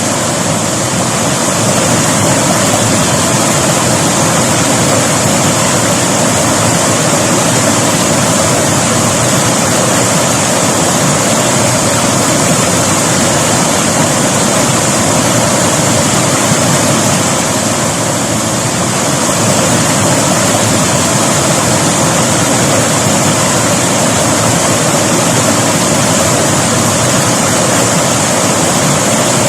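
River water rushing steadily, a constant dense hiss and roar of flowing water with no breaks.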